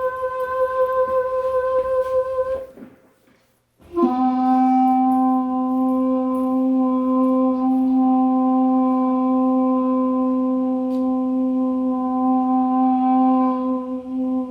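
Recorded daegeum (Korean bamboo transverse flute) playing slow improvised music, heard through a tube preamplifier and loudspeakers: one held note breaks off about two and a half seconds in, then after a second's pause a long, steady lower note is sustained.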